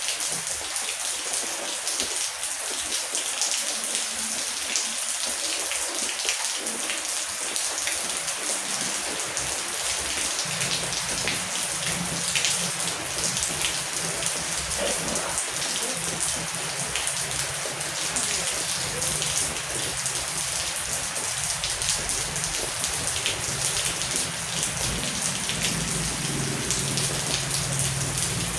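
Heavy rain falling steadily, a dense hiss full of individual drop ticks. A low rumble comes in about ten seconds in and carries on under the rain.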